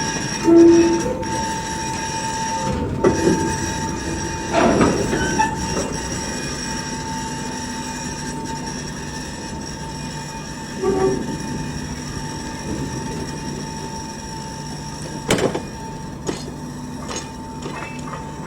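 Train rolling along the rails, its wheels squealing in a steady high whine over a low rumble, with occasional clanks. The sound slowly fades.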